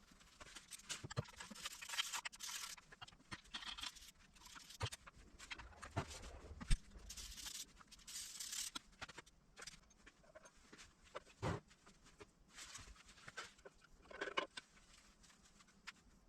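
Scattered clicks, taps and rustling of hand work on a K6A engine during head gasket removal: metal tools and parts being handled, with a sharper knock about 7 seconds in and another about 11 seconds in.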